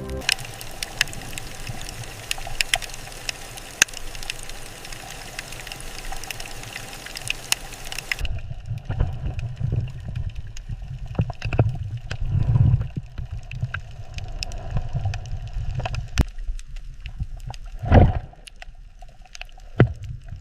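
Water ambience: gurgling and bubbling full of scattered sharp clicks, which turns to a lower rumbling after about eight seconds, with one louder click near the end.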